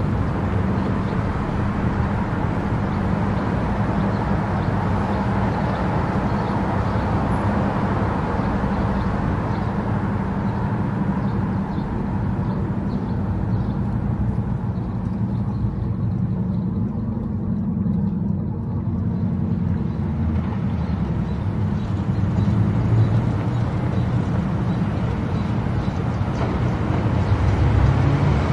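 Car driving at highway speed: steady tyre and road noise over a low engine drone, the hiss thinning for a few seconds midway.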